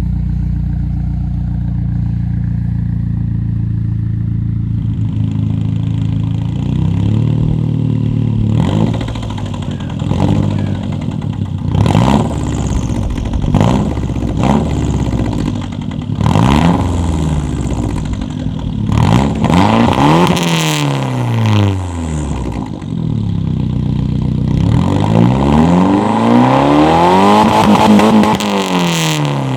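Saab B235R 2.3-litre turbocharged four-cylinder petrol engine idling steadily, then revved again and again, each rev climbing and falling back, with a longer, higher rev near the end. The engine is running on diesel fuel put in its petrol tank.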